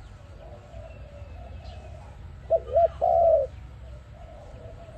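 Dove cooing: two short coos followed by one longer, louder coo about two and a half seconds in, with fainter coos in the background and a steady low rumble.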